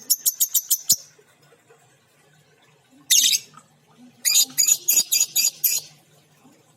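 Female lovebird calling in shrill, rapid chirps: a quick run of about seven in the first second, one longer screech about three seconds in, then another fast run of about eight.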